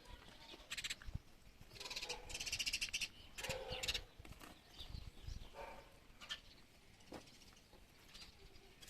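Village birds chirping in scattered short calls, with a rapid chattering call about two seconds in.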